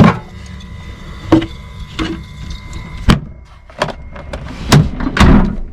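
A run of about seven sharp knocks and clunks, a second or so apart, over a low hum: hard cab fittings being handled and shut, the kind of clunk a fridge or storage-compartment lid makes when it is closed.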